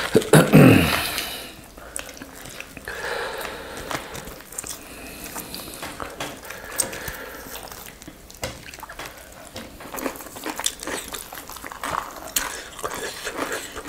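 Close-up wet chewing and lip smacking of people eating roast chicken with their hands: many small clicks and squishes, with meat being torn from the bird. A brief loud mouth or voice sound opens it.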